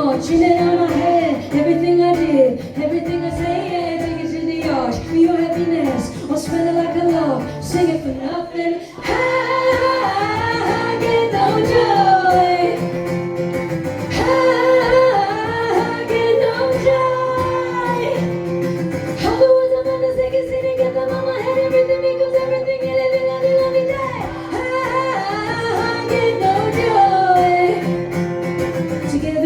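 Live music: a woman singing a melodic line with guitar accompaniment, with long held notes in the middle.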